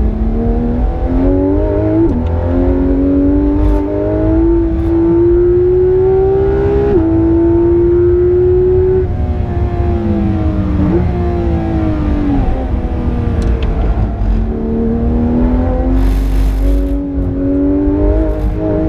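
Porsche 991.2 GT3 RS's naturally aspirated flat-six pulling hard, its pitch climbing with quick upshifts about two and seven seconds in, easing and falling in the middle, then building again, over a steady low road rumble.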